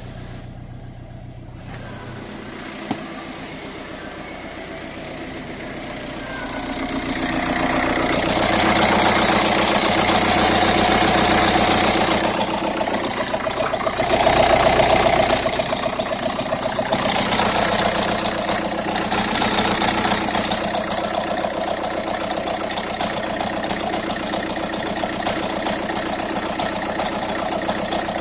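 Volkswagen 1.9 TDI AUY four-cylinder turbodiesel engine running. It is raised in revs in several surges during the first two-thirds, then settles to a steady run.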